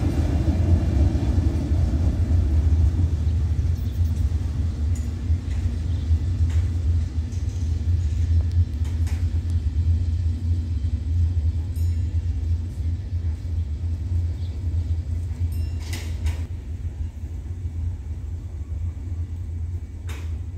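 Low rumble of a container freight train running away into the distance, fading slowly, with a few faint clicks.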